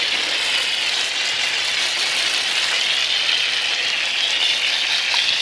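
Garden hose at regular pressure spraying water over a soaped dirt bike, a steady hiss of water rinsing off the foam and loosened dirt.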